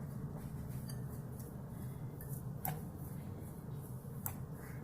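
Faint kitchen handling sounds as salt is added to a bowl of mashed potato mix: two light clicks from a utensil, one a little past halfway and one near the end, with fainter ticks, over a low steady hum.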